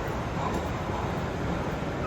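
Steady background hubbub of a busy exhibition hall, a level wash of crowd and hall noise with no single sound standing out.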